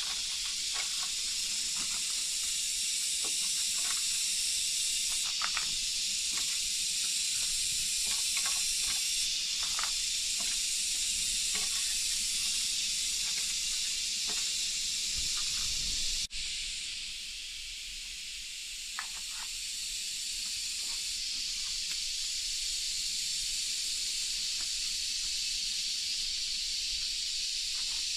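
Steady hiss of rain falling in a forest, with a few faint light knocks in the first half. The sound breaks off sharply about 16 seconds in and resumes a little quieter.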